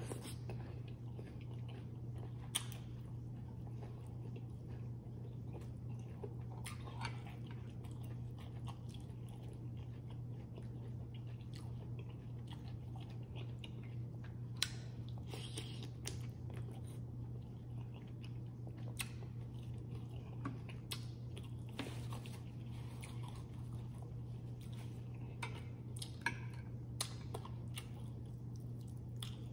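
Close-miked chewing and biting of food, with scattered short crunches and wet mouth clicks at irregular moments. A steady low hum runs underneath.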